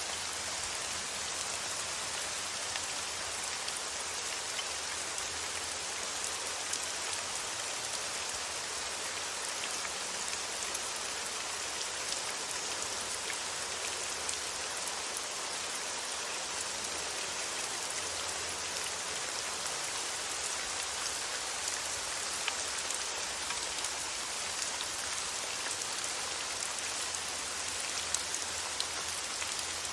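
Steady rain falling, with the hiss of the downpour and scattered small drop ticks.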